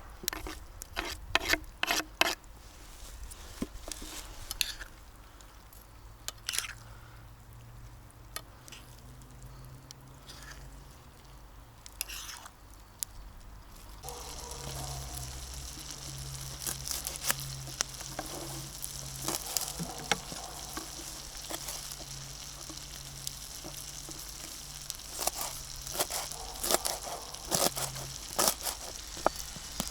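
Potatoes and mushrooms frying in a pan over a campfire: a sizzle with irregular sharp clicks and knocks. The sizzle grows louder and steadier about halfway through.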